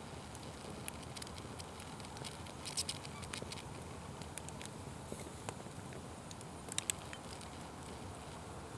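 Fire crackling: a steady low rush of burning with scattered sharp pops, a quick cluster of louder pops about three seconds in and again near seven seconds.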